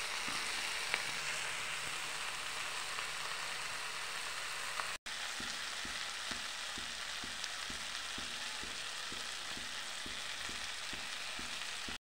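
Chopped okra frying in oil in a pan, sizzling steadily as a steel spatula stirs it. The sound drops out for an instant about five seconds in, and after that a soft low knock repeats about three times a second.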